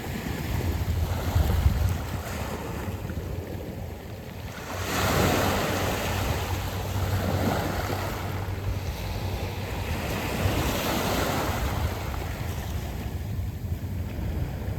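Sea waves washing over a beach of round pebbles, with surges of surf about five seconds in and again around ten seconds over a steady wash.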